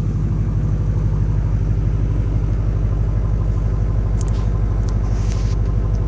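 2001 Chevy LB7 Duramax 6.6-litre V8 turbo-diesel idling steadily. It is running cold, just after a start at about −10 degrees without the block heater plugged in. A few faint high clicks come about four to five seconds in.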